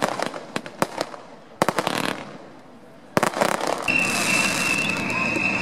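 Fireworks display: a rapid string of sharp crackling bangs, a second cluster of bangs, a short lull, then a loud burst just after three seconds. The burst is followed by a steady high tone over a hiss that lasts to the end.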